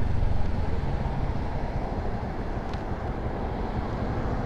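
Honda Navi scooter's small single-cylinder engine running under way, mixed with steady wind and road rush on the rider's microphone. One faint tick about midway.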